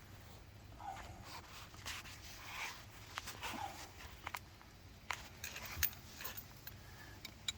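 Faint scattered clicks, taps and rustling of hands working with tools and pipe fittings.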